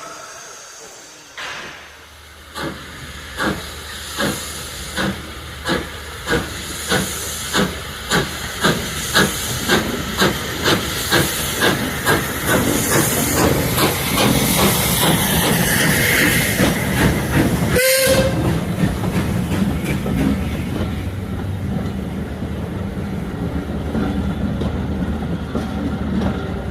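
Steam locomotive pulling away: its exhaust chuffs start about a second and a half apart and quicken until they blur into a steady rush, with steam hiss throughout.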